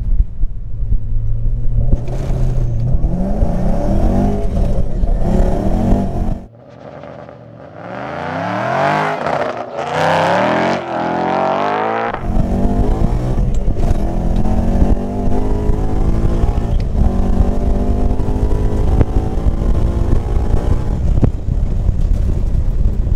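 Whipple-supercharged Ford Mustang GT's 5.0 V8 on a full-throttle quarter-mile run, heard from inside the cabin: it idles briefly, then pulls hard through the gears in a series of rising revs. About halfway through it is heard from outside for a few seconds as the car accelerates away, then from the cabin again, running hard at high revs to the end.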